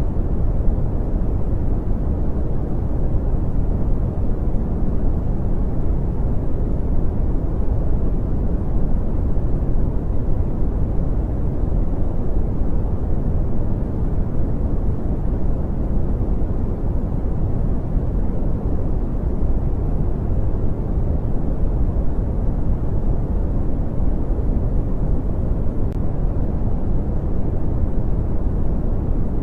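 Brown noise: a steady, deep rushing hiss with its weight in the low end and little treble, unchanging throughout.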